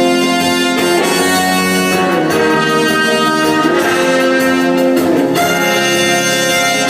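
Orchestra playing instrumental dance music, brass to the fore, with held chords and moving lines throughout.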